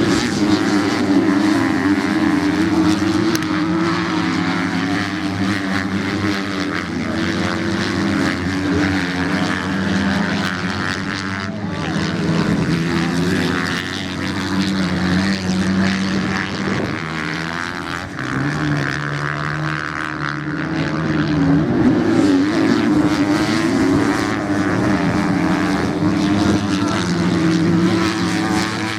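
Several racing motorcycle engines running together at high revs, their overlapping drones shifting up and down in pitch as the bikes race.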